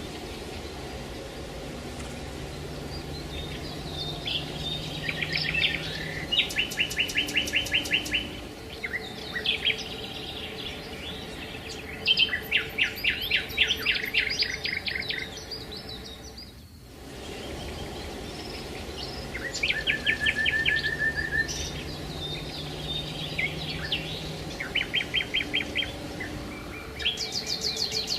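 Small songbirds chirping and singing, with rapid repeated trills and short calls over a steady faint outdoor background. The sound dips briefly about 17 seconds in, after which a near-identical passage of calls recurs.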